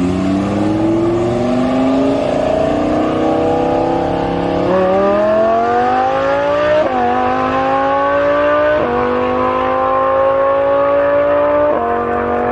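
Audi R8 V10 with a Capristo stainless-steel aftermarket exhaust accelerating hard through the gears. The engine note climbs steadily in each gear and breaks sharply at four quick upshifts.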